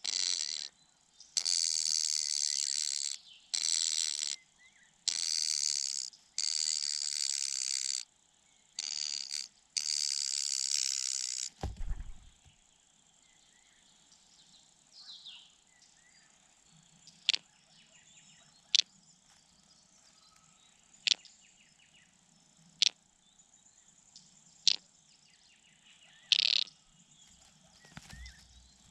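Young birds at the nest giving loud rasping begging calls, in about seven bursts of a second or so each. Then a dull thump, followed by single sharp chips every second or two.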